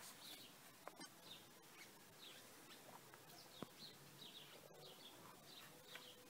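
Near silence, with faint, short high bird chirps repeating throughout and a soft click about three and a half seconds in.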